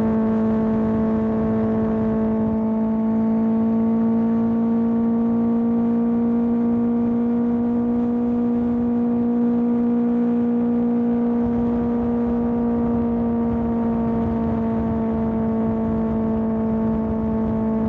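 Kawasaki ZX10R's inline-four engine through an M4 exhaust, running at steady revs while riding. The note holds nearly constant in pitch and loudness throughout.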